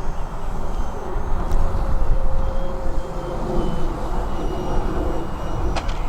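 Radio-controlled model airplane flying, a steady drone over heavy low rumbling noise, with a faint click about a second and a half in and another near the end.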